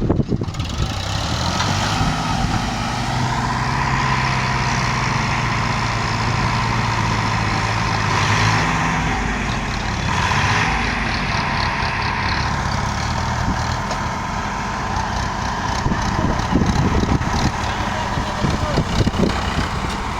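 A diesel vehicle engine running steadily with a high whine over it; its note changes about halfway through.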